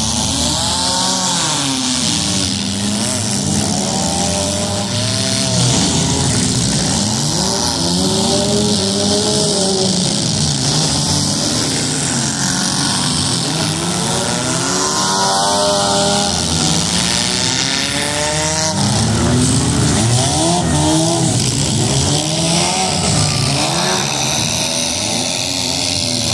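Several demolition derby cars' engines revving up and down at once, loud and continuous, their pitches rising and falling over one another as the cars push and ram in the arena.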